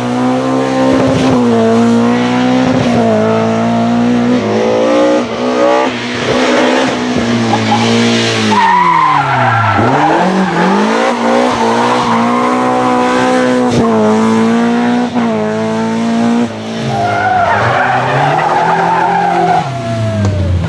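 Rally car engine revving hard and held at high revs, bouncing with the throttle. The revs drop sharply about halfway through and climb again, with tyres squealing as the car slides.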